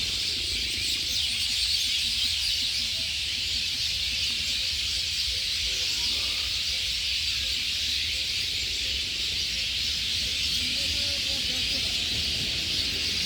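A dense, steady chorus of many small birds chirping together, over a low rumble.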